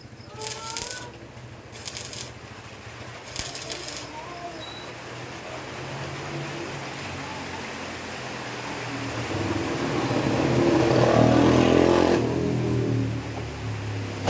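A few sharp clinks and some bird chirps, then a motor vehicle passes by: its engine and tyre noise grow louder for several seconds, peak about three-quarters of the way in and fade quickly.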